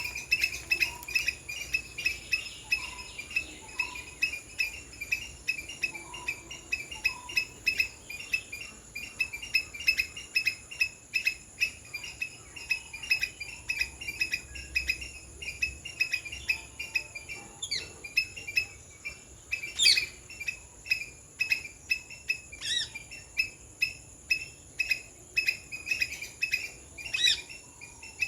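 Rapid, repeated sharp chirps, about two to three a second, with a few louder sweeping calls about two-thirds of the way in and near the end, over a steady high-pitched insect drone.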